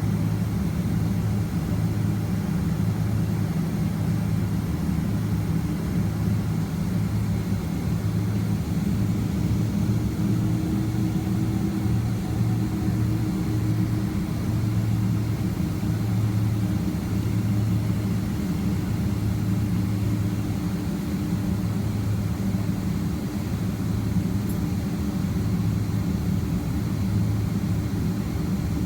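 Boeing 767-300ER jet engines heard from inside the passenger cabin, a steady low hum at constant thrust.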